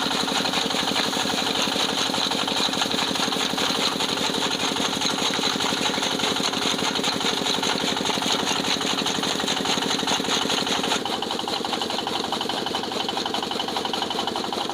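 Petter diesel engine running steadily with a rapid, even firing beat. About eleven seconds in, the sound drops a little and a steady hum fades out.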